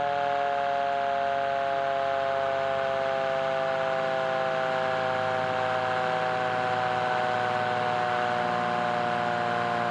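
Fire truck siren holding a steady chord of several tones that slides slowly and evenly downward in pitch, with a low hum underneath.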